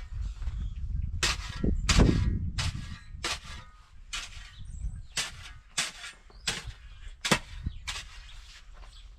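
Thick ice crust on deep snow cracking and crunching in a run of sharp, regular strikes about every half second to a second, with a low rumble in the first couple of seconds that then falls away.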